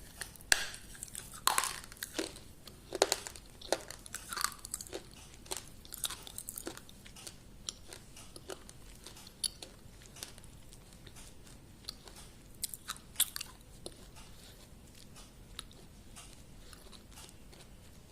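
A person chewing and crunching food, with many short sharp crunches, loudest and most frequent over the first several seconds, then softer and more spread out.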